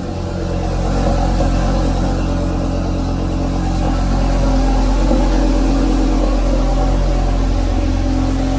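Audi TT RS 2.5-litre turbocharged inline five-cylinder, fitted with an IROZ IMS1100 upgrade, idling steadily while warming up after a cold start.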